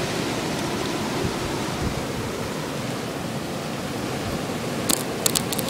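Blizzard wind blowing steadily, a dense even rush of wind and blown snow. A few sharp clicks come near the end.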